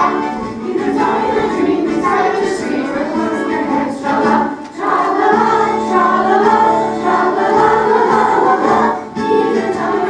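A choir singing a song with instrumental accompaniment, in phrases with short breaths between them.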